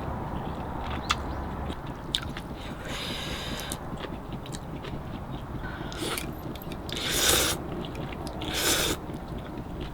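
A person eating: chewing and biting with crunchy bites, and small clicks and scrapes of utensils against dishes. Three louder crunching bursts come about three, seven and nine seconds in, the middle one the loudest.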